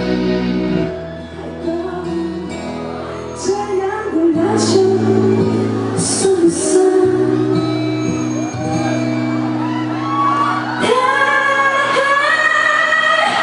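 Live pop music: a woman singing over a band, with long held chords under the voice. The sung line stands out more clearly in the last few seconds.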